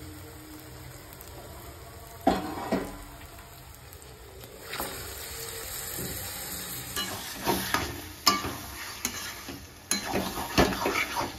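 Spice masala frying with a steady sizzle in a metal kadhai as raw mutton pieces are added, with a couple of knocks a little after two seconds in. Over the last few seconds a spatula scrapes and knocks against the pan, stirring the meat into the masala.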